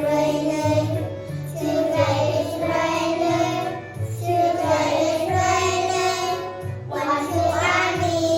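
A children's song: a child's voice singing a melody over a backing track with a steady beat.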